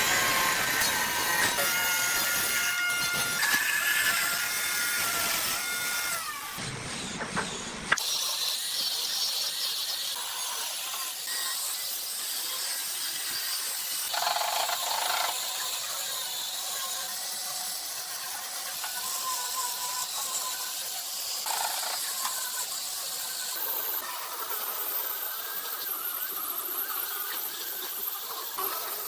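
High-pitched workshop machine noise, squealing steady tones over a hiss. About eight seconds in it changes abruptly to a thinner, higher hiss with little low end.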